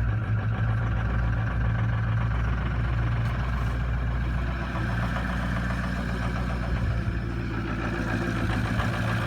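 2004 Ford F-350's 6.0 Power Stroke V8 turbodiesel idling steadily just after a cold start at about 24 °F, following one glow-plug cycle.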